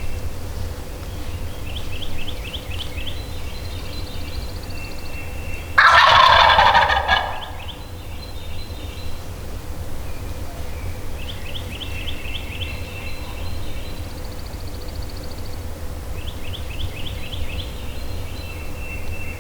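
A wild turkey gobbler gobbling loudly and close, once about six seconds in, a rattling call lasting about a second and a half. Fainter, more distant rattling calls come about two, eleven and sixteen seconds in.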